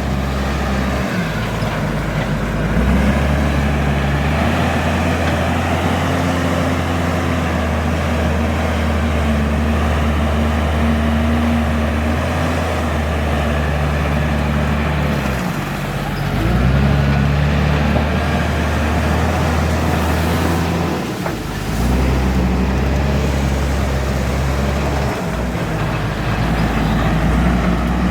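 Heavy diesel engine of earthmoving equipment running under changing load, its note shifting up and down several times as the machine works.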